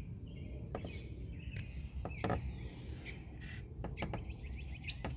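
A scatter of light, irregular clicks and knocks from engine parts being handled while the fuel injectors and fuel line are worked loose from the intake manifold. Faint bird chirps sound in the background over a low steady hum.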